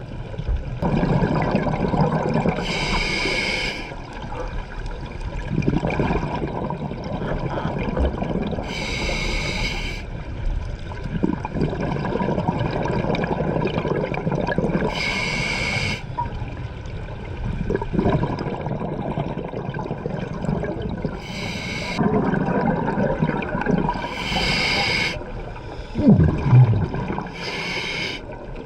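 A scuba diver breathing through a regulator underwater, recorded by the GoPro: a short hissing inhale every few seconds, six in all, each followed by a longer stretch of bubbling, gurgling exhale.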